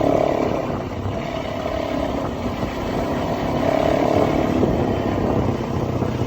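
Motorbike engine running during a ride over a dense, noisy rumble; the engine note swells and fades a few times.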